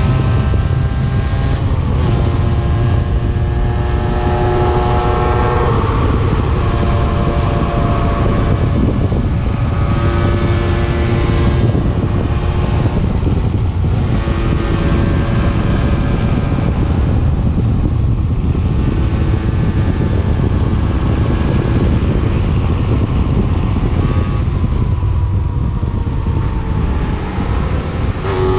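125 cc enduro motorcycle engine being ridden hard, its note holding for a second or two, then stepping up or down with throttle and gear changes, over a heavy low rumble.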